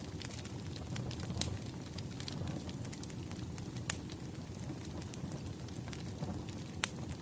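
Wood fire crackling: a steady low rumble of burning logs with sharp pops scattered irregularly, the loudest about four seconds in and another near the end.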